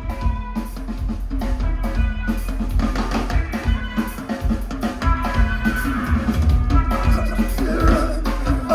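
A live band playing loudly, with a busy drum kit driving the music over guitar.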